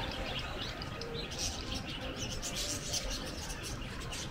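Many small birds chirping: a dense, steady run of short high chirps over a low background rumble.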